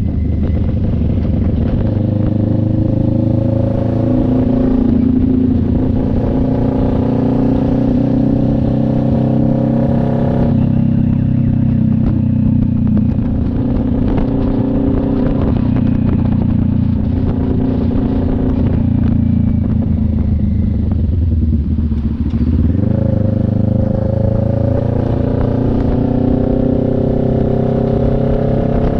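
CF Moto NK400 two-cylinder engine running under way. Its pitch climbs over the first few seconds and holds, drops sharply about ten seconds in, then climbs again a little past twenty seconds in.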